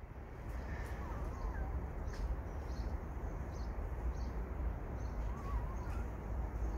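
Steady low rumble with faint bird calls over it: a short wavering chirp about a second in, another about five seconds in, and brief high chirps scattered through.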